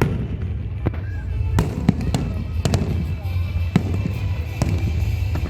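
Fireworks display: shells bursting in an irregular string of sharp bangs, seven or eight in a few seconds, over a continuous low rumble of the show.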